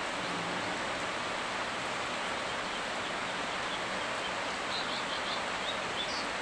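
Steady hiss of falling rain, with a few faint high chirps from small creatures in the second half.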